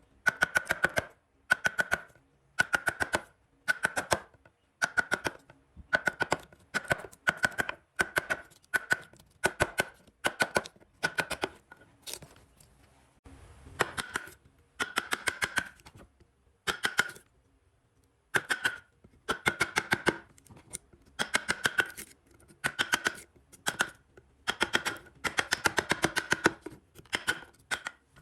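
Woodworking hand tool working wood in repeated short strokes, about one a second, each stroke a rapid run of sharp clicks with a ringing tone, with brief pauses between runs.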